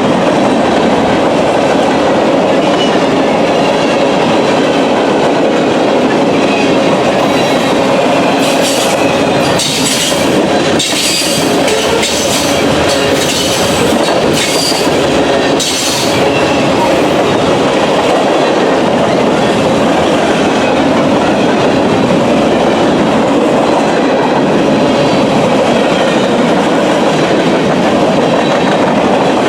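Norfolk Southern freight train rolling by, a loud steady rumble with the clickety-clack of wheels over the rail. Several short high-pitched wheel squeals come in the middle stretch.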